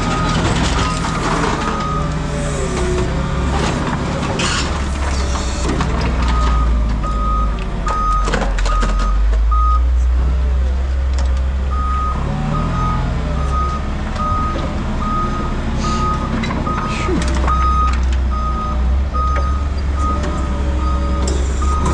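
Heavy vehicle's backup alarm beeping at one steady pitch, about three beeps every two seconds, over the low running of its engine. The beeping stops twice for a few seconds. Scattered sharp knocks come through as well.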